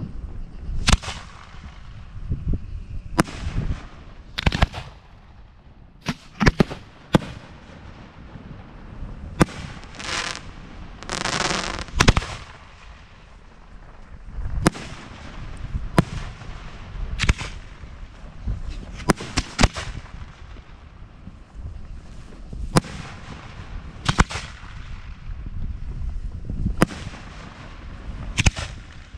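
Aerial fireworks shells fired from mortar tubes and bursting: a string of sharp bangs at irregular intervals. About ten seconds in there is a longer rushing, crackling stretch.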